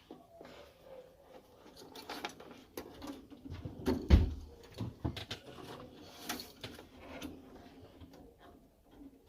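Tools and parts being handled during boiler work: scattered clicks and knocks, with one louder knock about four seconds in.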